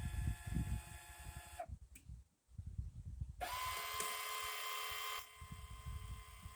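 Electric linear actuator's small motor whining steadily as it tilts the outboard motor. The whine breaks off for about a second and a half, comes back louder with a hiss for a couple of seconds, then settles to a quieter steady whine, over an uneven low rumble.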